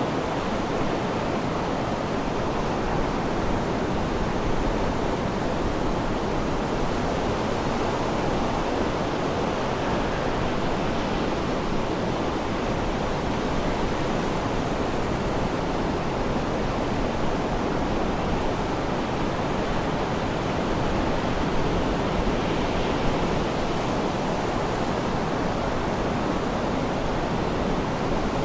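Sea waves washing on the shore in a steady, even rush of surf.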